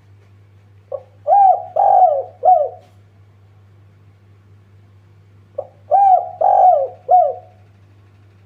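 Spotted dove cooing: two calls about five seconds apart, each a short note followed by three mellow, downward-bending coos.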